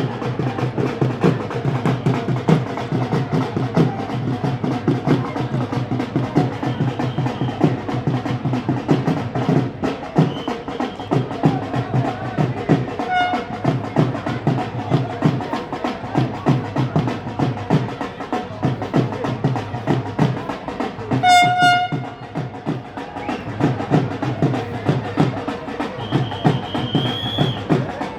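A train running with a fast, continuous clatter of wheels on the rails, and its horn sounding: a short toot about 13 seconds in and a longer blast about 21 seconds in.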